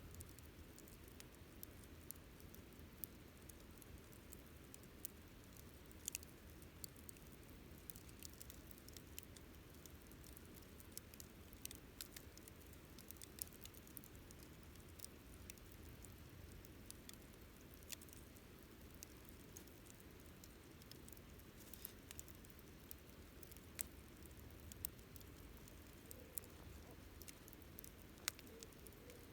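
Wood campfire crackling: irregular sharp pops and snaps, a few of them louder, over a faint steady low background.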